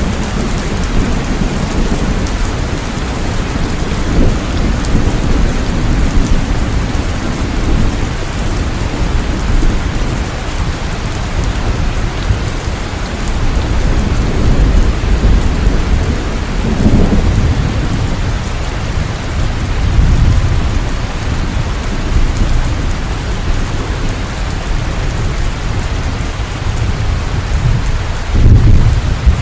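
Steady rain. Low rumbles swell up several times, the strongest near the end.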